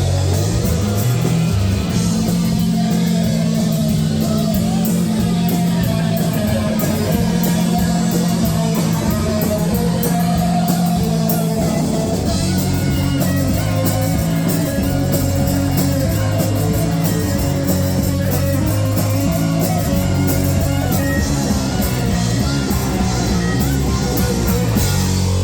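Live rock band playing loud and steady, with guitar and bass over drums, their cymbals ticking all through.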